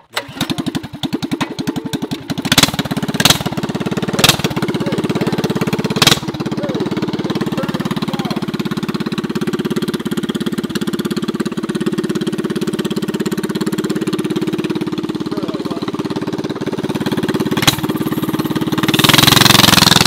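Dirt bike engine started and left running: it catches right away, gives several sharp cracks in the first few seconds, settles into a steady idle, and runs louder and rougher near the end.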